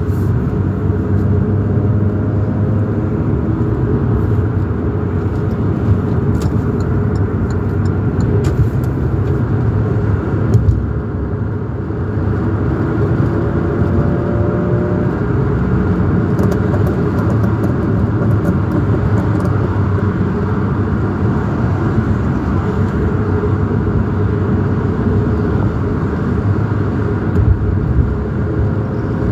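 Sports car engine running with a loud rattling and repeated popping, a few sharper pops standing out.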